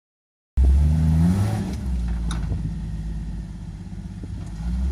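Off-road vehicle engine revving hard as it climbs a hill, cutting in about half a second in with rising pitch, then running steadily and slowly growing fainter as it pulls away.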